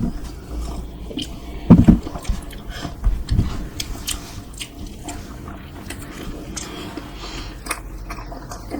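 Close-miked eating of dosa: wet chewing and mouth clicks, with two louder low thumps about two and three and a half seconds in.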